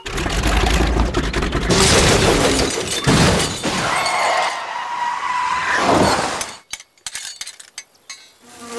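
Cartoon sound effects of a fly speeding low over a road: a loud rushing whoosh, then a steady high whine for about two seconds that cuts off in a crash, followed by scattered small clattering and tinkling sounds.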